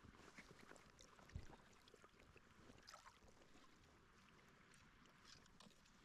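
Near silence: faint, steady rush of river water, with a few small ticks and one soft low thump about a second and a half in.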